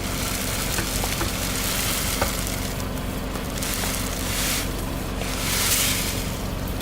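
Car engine running steadily under a crackling, hissing noise that swells and fades every second or two, with small scattered cracks: objects being crushed under a slowly rolling tyre.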